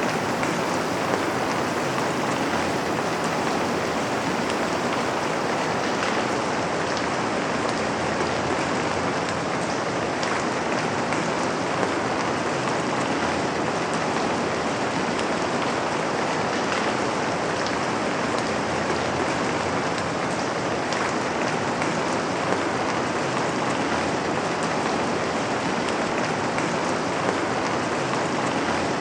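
Steady rain falling, with occasional drops pattering against a window.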